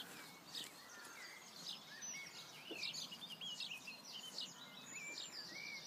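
Faint birdsong: a run of quick chirps and short warbling notes.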